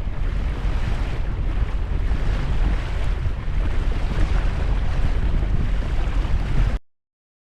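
Wind buffeting the microphone over the rush of water along a sailing yacht's hull while under way. The sound cuts off abruptly to silence near the end.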